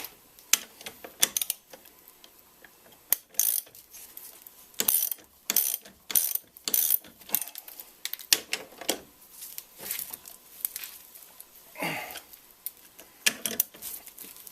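Ratchet wrench clicking in irregular runs of short rasps and clicks as the top nut is run onto the shock strut's shaft.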